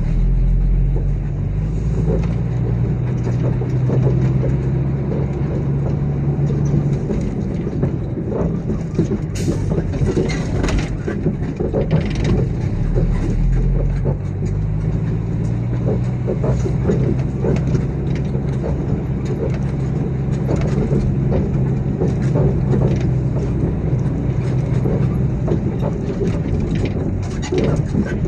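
Heavy construction vehicle's engine running steadily, a continuous low drone. Scattered sharp knocks and clicks sound over it, several of them about a third of the way in.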